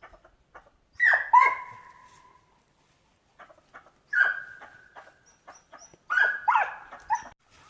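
Sharp, high yelping barks in three bouts: a pair about a second in, one near the middle and another pair near the end. Each falls in pitch and trails off into a held note.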